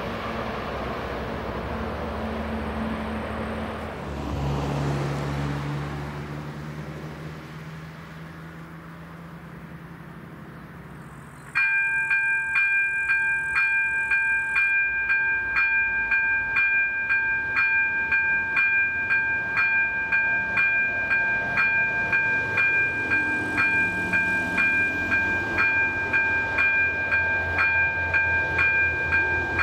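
Low rumble of a train, then about eleven seconds in a loud ringing signal starts suddenly, striking again and again at a quick, even pace.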